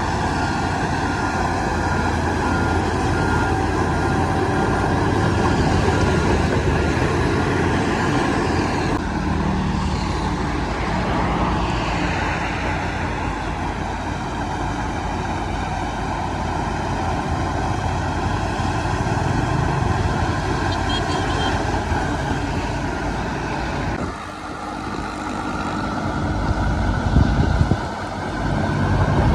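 Heavy diesel engines of a crawler bulldozer and dump trucks running, a steady loud drone that changes abruptly about nine seconds in and again near the end.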